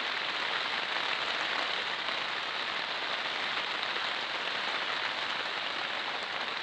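Steady rain falling on outdoor surfaces, an even hiss with no breaks.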